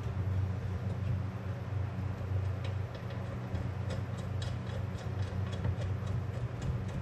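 A steady low hum, with light ticks that begin about three seconds in and come faster towards the end, about three or four a second.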